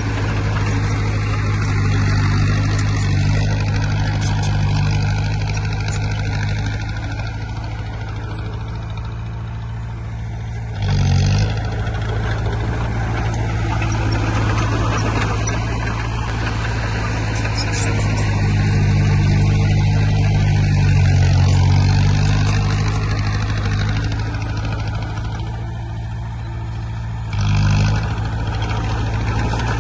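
Heavy-equipment diesel engines running steadily under load, the drone swelling and easing as the machines work the soil. Two short, sharp, louder bursts cut in, one about eleven seconds in and one near the end.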